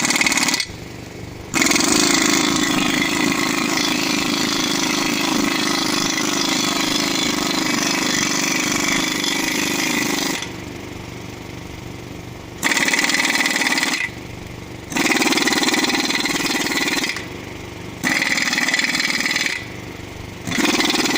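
An impact wrench hammering as it loosens and removes the wheel bolts of a center-pivot irrigation tower. It runs loud in bursts: a short one at the start, one long run of about nine seconds, then four shorter bursts.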